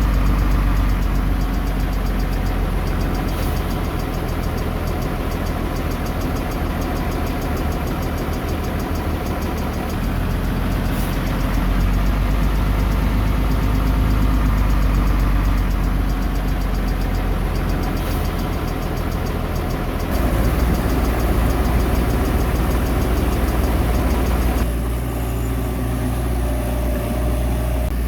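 Heavy diesel engine of earthmoving machinery running steadily, its note shifting a few times as the load changes, with a step up in loudness about two-thirds of the way through.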